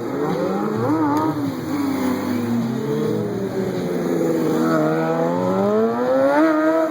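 A stunt vehicle's engine held at varying revs: its pitch sinks slowly through the first half, then climbs steadily, peaking near the end before cutting off abruptly.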